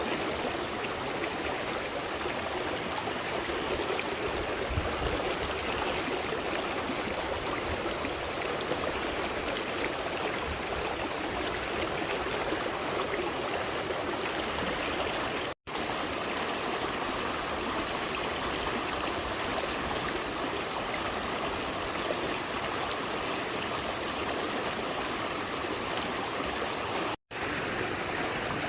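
Steady rushing of running water, like a stream, cut by two brief moments of silence.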